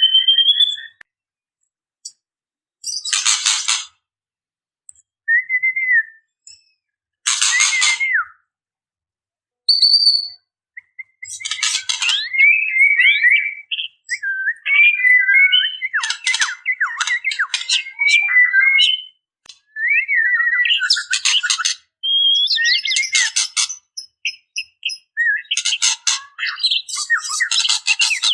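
Female white-rumped shama calling to a male: short whistled glides and chirps broken by harsh, raspy rattling bursts (the 'ketrekan'), sparse at first with silent gaps, then coming thick and fast from about a third of the way in. It is a female's call to attract a male.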